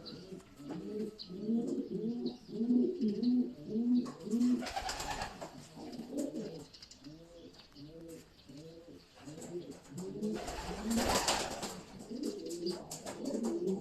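Domestic pigeons cooing, one coo after another with calls overlapping. Twice, about five and eleven seconds in, there is a short rustling noise.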